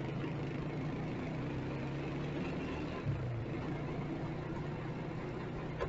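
Motorcycle engine running steadily in city traffic, with a brief rise in engine sound about halfway through.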